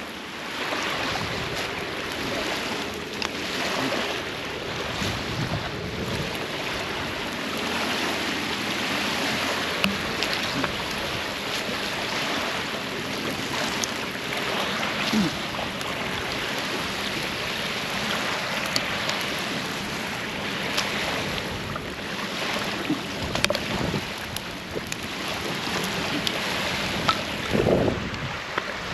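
Wind rushing over the microphone in slow swells, with scattered small crackles and ticks from a newly lit campfire.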